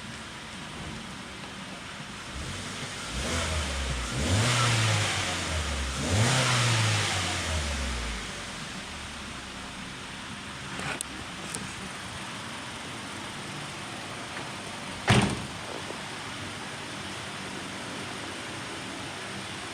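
Hyundai i20 engine running at idle, revved twice in quick succession about three seconds in, the pitch rising and falling each time before it settles back to a steady idle. A single sharp knock sounds about fifteen seconds in.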